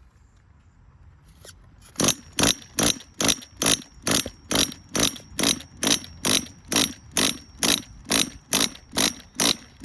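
A Tamiya TGS-R nitro RC car engine being turned over while primed without firing. It makes a rhythmic knocking, about two and a half knocks a second with a steady high whine, starting about two seconds in. The owner hears this noise as coming from inside the motor and suspects the engine is shot.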